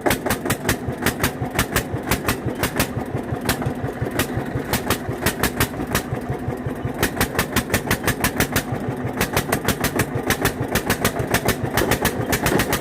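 Eicher 241 tractor's single-cylinder diesel engine running at a steady idle, its firing strokes knocking evenly at about seven beats a second.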